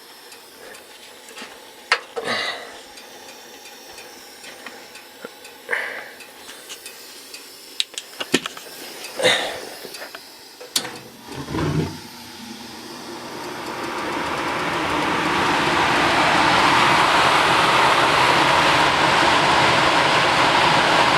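1990 Heil gas furnace: scattered clicks and knocks of parts being handled, then about twelve seconds in the blower starts, its rushing air building over a few seconds to a steady run.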